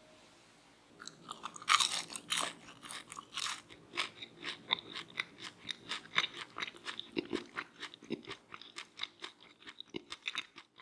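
Crispy fried potato snacks being bitten and chewed, with loud crunches. It starts about a second in, with the loudest bites soon after.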